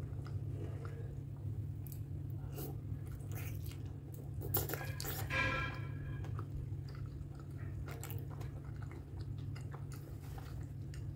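Close-up mouth sounds of someone biting and chewing soft, gelatinous pork skin dipped in curry sauce: wet, sticky chewing with many small clicks, over a steady low hum. About halfway through there is a brief, louder wet noise.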